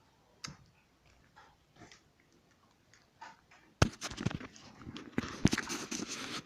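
A dog barking in short, noisy bursts, loud from about four seconds in, with a couple of sharp knocks among them; only faint clicks come before.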